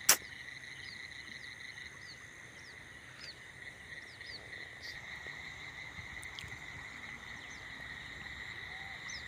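Frogs and insects calling over flooded paddy fields: a steady high drone with faint short chirps repeating throughout, and one sharp click just after the start.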